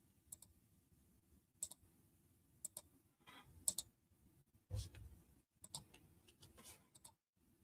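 Near silence with a few faint, scattered clicks, a brief soft rustle and a soft thump a little past the middle: quiet handling while pages of notes are looked through.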